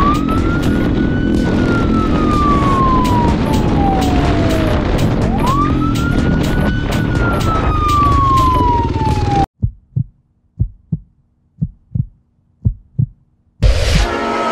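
A police siren wailing twice, each cycle rising quickly and falling slowly, over vehicle engine noise. About nine seconds in it cuts off abruptly to a heartbeat sound effect, soft thumps in pairs about once a second, and music comes in near the end.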